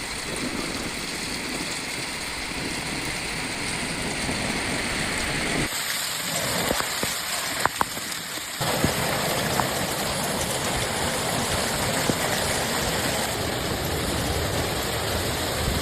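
Heavy storm rain pouring steadily onto surfaces. The sound changes abruptly about six seconds in and again near nine seconds, with a few sharp clicks in between.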